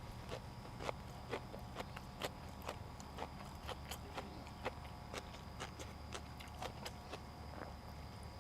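Close-up eating sounds: irregular sharp crunches and mouth smacks of chewing, about two a second, over a steady low hum.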